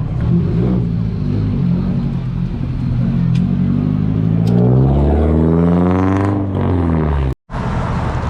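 A car engine running loud and low, then revving up in a long rising pitch from about four and a half to six and a half seconds in. The sound cuts out for an instant near the end.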